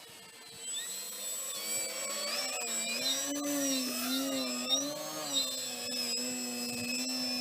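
Radio-controlled model aeroplane's motor and propeller whining as the plane hangs nose-up in a torque roll. About a second in it gets louder, and its pitch swells up and down as the throttle is worked to hold the hover.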